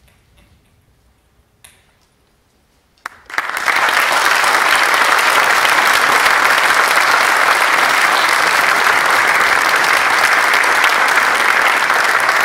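Audience applauding, breaking out suddenly about three seconds in after a near-quiet stretch with a few faint ticks, then holding steady.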